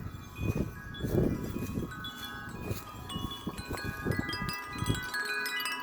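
Wind chimes ringing in strong wind, several overlapping tones that grow busier from about two seconds in. Gusts of wind rumble on the microphone and drop away near the end.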